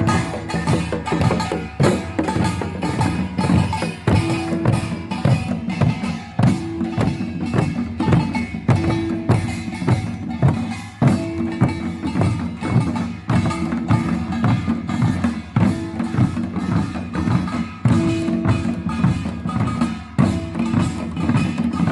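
Korean samul nori percussion ensemble playing: small kkwaenggwari gongs, janggu hourglass drums and buk barrel drums struck in a fast, driving rhythm, with a large jing gong under them.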